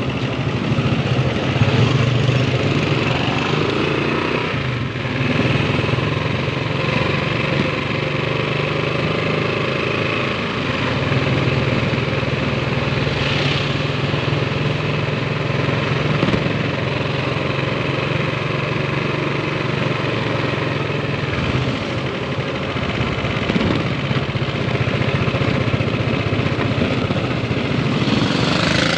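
A tricycle's motorcycle engine running steadily with a low hum as it carries a passenger through traffic, heard from inside its sidecar.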